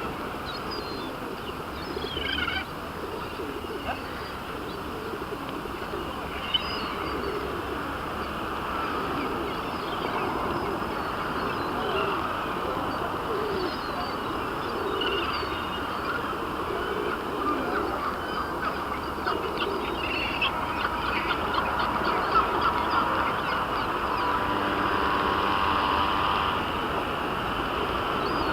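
A flock of pigeons cooing, with short higher bird calls scattered through it over a steady background hum.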